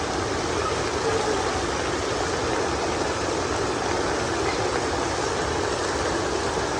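Heavy rain falling steadily, a constant rushing hiss with no break.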